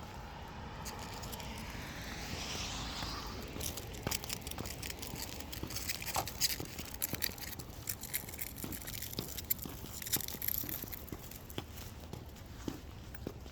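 Footsteps crunching and scraping on icy pavement, an irregular run of sharp crunches through most of the stretch. A soft rushing sound comes first, fading after about three seconds.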